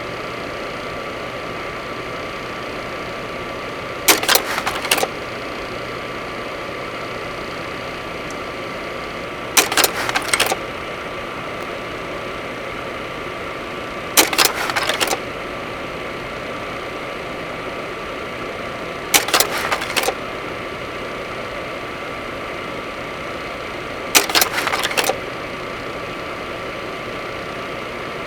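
Cessna 208 Caravan's PT6A turboprop running steadily while the aircraft taxis, heard from the cockpit: a constant noise with a thin high whine. A short burst of clicks cuts in about every five seconds.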